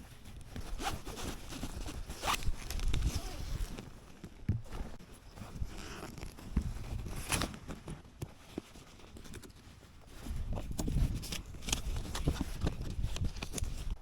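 Camping gear being unpacked from motorcycle bags: irregular rustling, scraping and handling noises, with a few longer zip-like sweeps.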